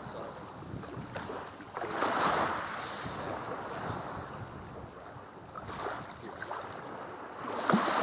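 Sea waves washing onto a black volcanic sand beach, surging in three swells, the loudest near the end, with wind on the microphone.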